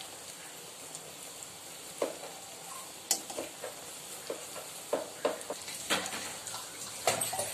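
Egg-coated bread rounds shallow-frying in hot oil: a steady sizzle with scattered pops and clicks.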